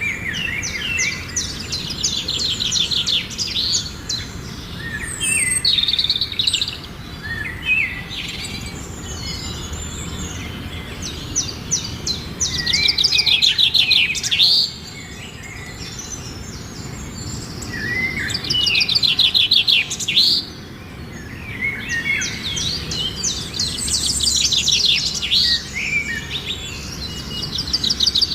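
Birds singing: repeated phrases of fast, high trills broken by chirps, over a steady low background hum.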